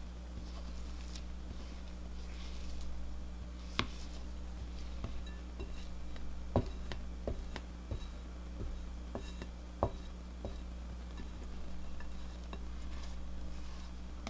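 A spatula scraping and knocking against a bowl while folding macaron batter, with soft scraping and a scatter of sharp clinks, the loudest a few seconds in and near the middle. A steady low hum runs underneath.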